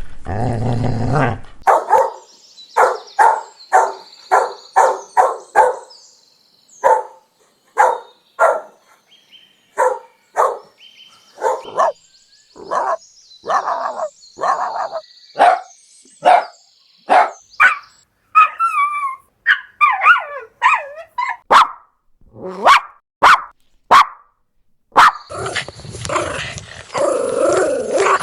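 Puppies barking in a long run of short, separate yaps, about two a second. Around the middle come high wavering whimpers, and there is a low continuous growl at the start and again near the end.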